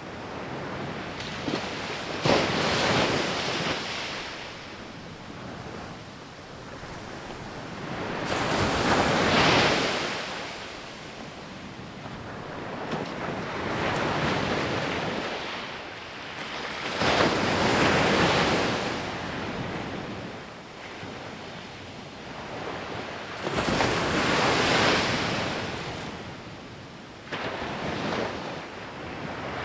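Ocean surf on a sandy beach: waves breaking and rushing up the shore one after another, a surge of noise swelling and fading six times.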